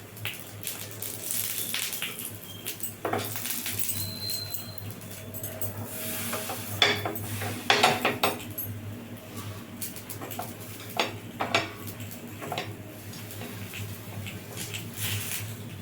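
Metal utensil clinking, tapping and scraping against an appam pan at irregular intervals as the appams are turned over in their cups.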